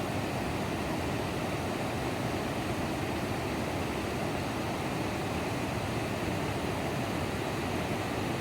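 Steady, even rushing noise of heavy rain, which cuts off abruptly at the end.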